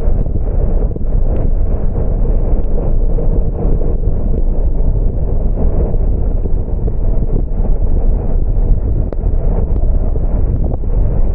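Steady loud rumble of a car driving on a wet road: tyre and wind noise buffeting the action camera's microphone, with a few faint ticks.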